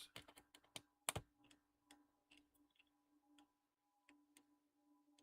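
Faint, irregular clicks and ticks of small screws and a screwdriver being handled while fastening a laptop's bottom cover, the sharpest about a second in, over a faint steady hum.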